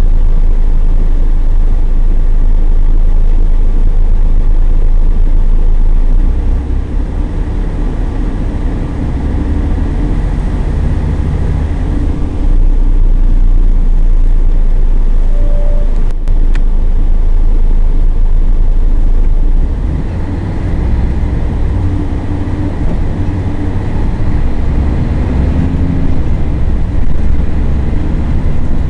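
Scania L113CRL bus's 11-litre six-cylinder diesel engine running continuously under way. It eases off twice, for about six seconds each time, then pulls again with its pitch slowly rising near the end.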